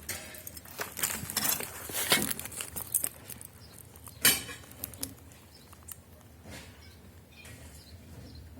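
Irregular light clinks and knocks of handled objects, with one sharper knock about four seconds in, then only scattered faint ticks.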